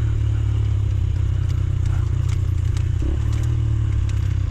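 Rieju Marathon Pro 125 dirt bike's 125cc engine running steadily under way on a trail, with heavy low rumble on the microphone and a few light knocks and clatters.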